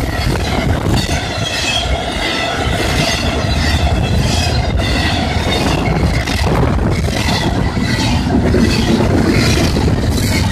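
Double-stack container cars of a freight train rolling past close by: a loud, steady rumble with the repeated clatter of wheels over rail joints.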